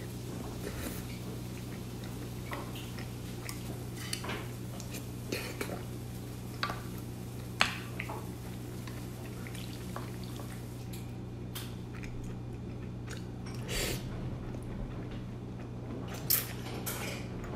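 Cutlery clicking and scraping against a dish of microwave pasta while eating, a dozen or so sharp clicks scattered through, the sharpest about seven and a half seconds in and near the end. A steady low hum runs underneath.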